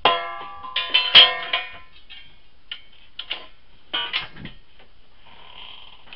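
Metal clanks that ring on after each hit: three hard strikes in the first second and a half, then lighter knocks and a brief scrape near the end. This is steel being handled while ash is cleaned out of a wood furnace.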